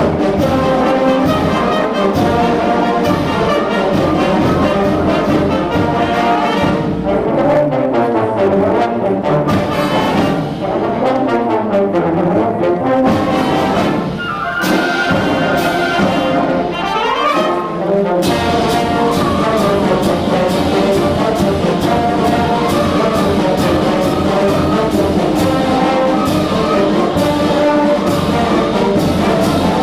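A school concert band with brass to the fore playing a fast circus march over a steady beat. In the middle, runs of notes sweep down and then up.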